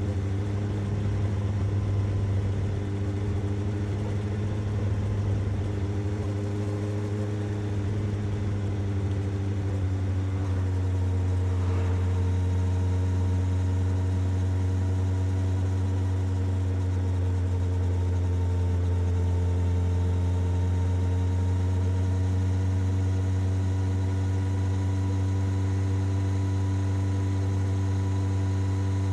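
Suzuki GSX-S750's inline-four engine running steadily through its exhaust at an even, held pitch, which wavers slightly over the first several seconds.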